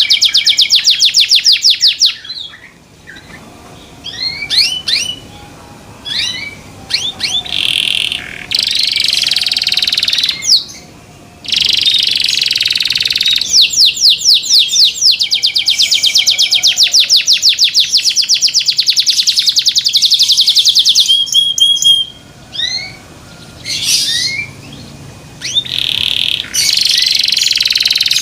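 Canary singing: long, loud phrases of fast repeated trill notes, broken by a few short pauses filled with scattered single chirps.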